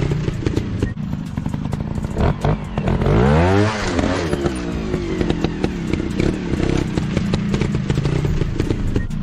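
Dirt bike engines running, one revving up sharply and dropping back about three to four seconds in, with crackling and clattering throughout.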